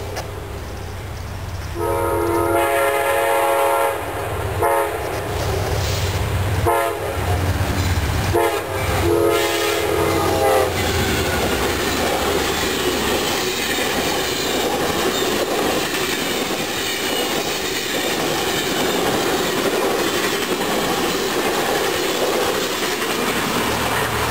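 Amtrak passenger train sounding its horn in a series of blasts for the grade crossing, from about two seconds in to about ten seconds, then its cars rumbling and clattering steadily past on the rails.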